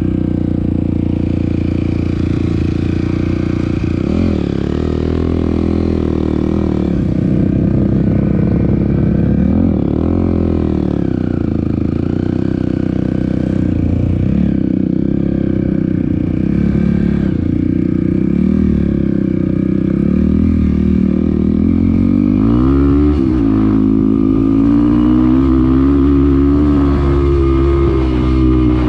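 Dirt bike engine running under way, its revs rising and falling every few seconds as the rider works the throttle, with a sharper rev rise a little after twenty seconds in.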